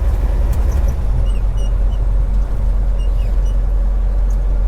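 Steady low rumble of a semi-truck heard from inside the cab, with a few faint short high squeaks twice along the way.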